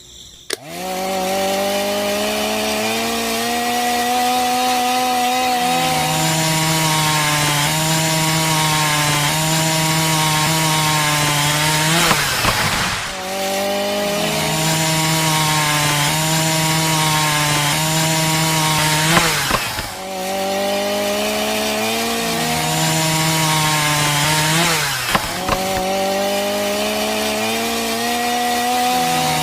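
Small electric motor running with a steady whine, its pitch stepping up and down. Three times it briefly dips and sweeps back.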